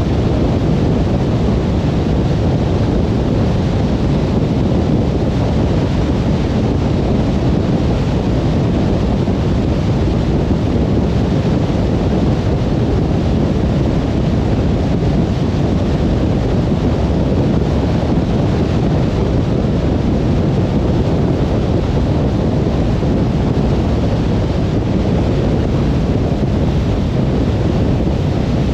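Car cruising on a motorway: a steady, even rush of tyre and wind noise, heaviest in the low rumble, with no changes of speed or separate events.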